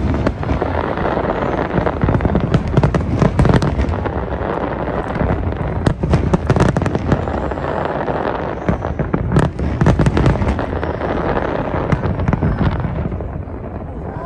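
Fireworks display: a dense, continuous barrage of bursting shells and crackling, many bangs a second over a rolling rumble, thinning out near the end.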